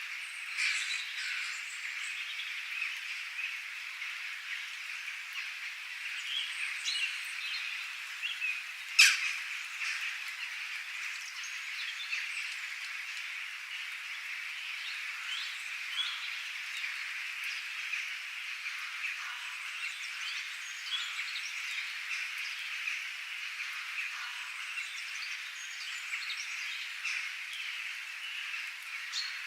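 Outdoor nature ambience: many birds chirping and calling over a dense, steady high chorus of calling animals. There is one sharp click about nine seconds in.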